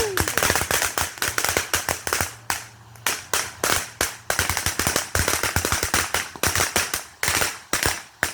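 Consumer fireworks going off in a rapid, irregular run of sharp firecracker-like cracks and bangs, with a short lull about two and a half seconds in before the popping resumes and runs until near the end.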